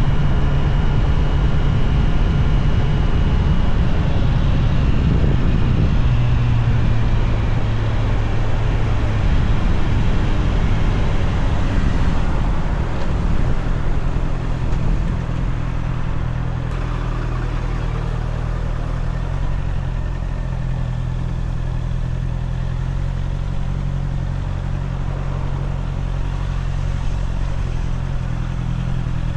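Honda CBR650R's inline-four engine running while the bike is ridden. Its note drops in pitch about six seconds in and turns slightly quieter and steadier from about halfway.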